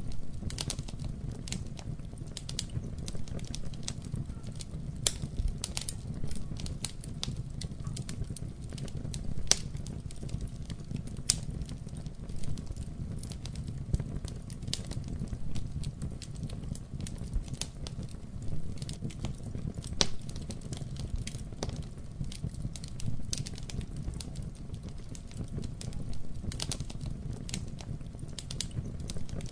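Wood fire in a fireplace burning with a steady low rumble of flame and frequent irregular crackles and pops, a few louder snaps among them.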